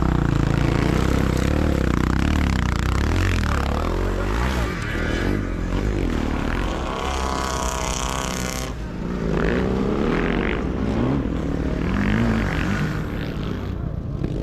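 Sidecar motocross motorcycles' engines revving, their pitch rising and falling with the throttle. One engine holds a steady high note for a couple of seconds in the middle before it cuts off abruptly.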